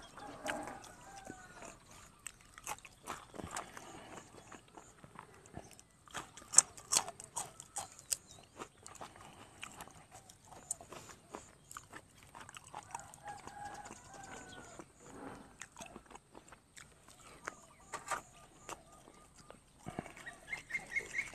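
Close-miked eating: a man chewing fresh herbs and curry, with a string of quick crunches and wet mouth clicks. A faint animal call sounds in the background twice, once about a second in and again past the middle.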